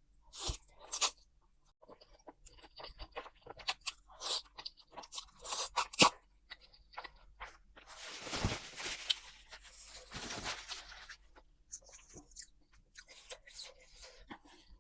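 Close-miked eating: a run of crunchy bites and chewing, with a longer, louder noisy stretch from about eight to eleven seconds in.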